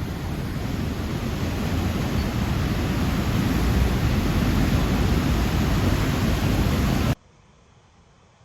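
A river in flood after heavy rains rushing: a loud, steady noise of fast water that grows slowly louder, then cuts off suddenly about seven seconds in, leaving only a faint hiss.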